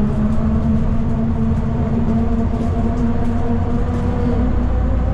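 City bus heard from inside the cabin while it is moving: a steady low rumble with engine and drivetrain hum, its tones drifting slightly in pitch as the speed changes.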